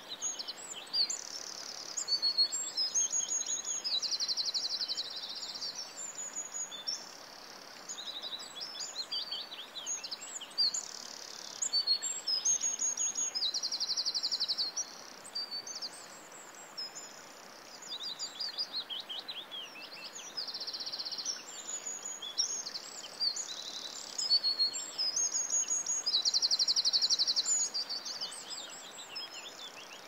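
Several songbirds singing in a forest, high-pitched phrases of fast trills and quick chirps overlapping one another, over a steady low hiss.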